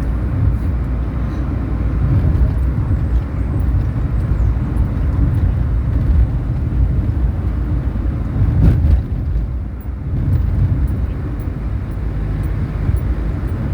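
Car on the move: a steady low rumble of road and engine noise, swelling briefly past the middle and easing for a moment just after.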